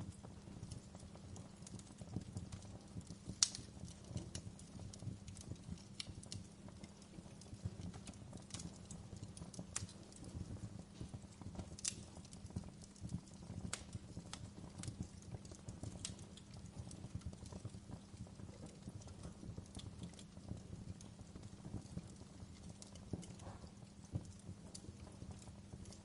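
Wood fire crackling in a fireplace: irregular sharp pops and snaps over a low, steady rumble, with one louder pop about three and a half seconds in.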